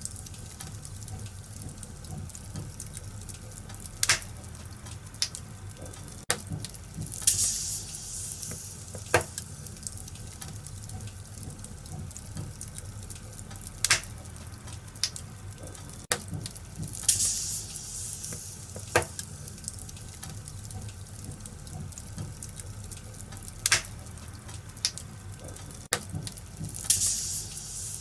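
Wood fire crackling in a fireplace: a steady soft hiss with sharp pops every few seconds, and three short spurts of hissing from the burning wood.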